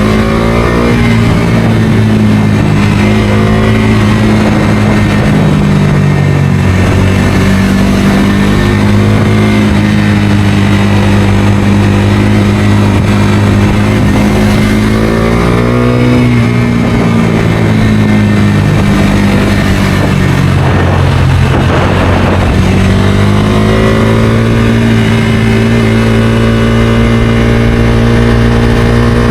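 A Bajaj Dominar 250's single-cylinder engine is under way on the road at a steady drone. Its pitch dips and climbs again a few times with the throttle and gear changes, about fifteen seconds in and again a little past twenty seconds. A brief rush of noise comes just before the second change.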